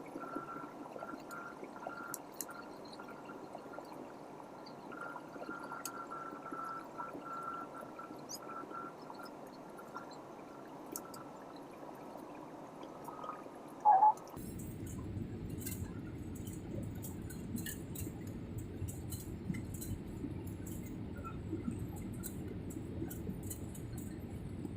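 Airbus A320neo cabin noise during the landing: steady engine and airflow noise with a faint whine. About halfway through comes one short, loud sound, and after it the noise drops to a lower, steadier rumble.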